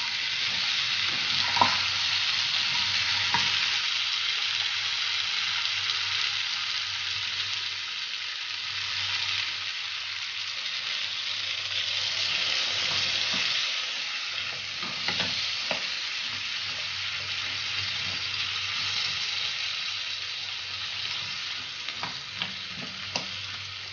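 Diced potatoes sizzling in oil in a nonstick frying pan, stirred with a slotted spatula that knocks and scrapes against the pan now and then. Water is poured into the pan partway through.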